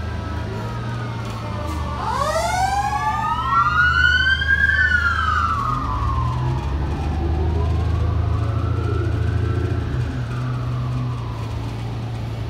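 Emergency vehicle sirens over a steady low engine rumble: about two seconds in, siren tones sweep steeply up together, peak, then slowly fall away, and a softer wail rises and falls again later on.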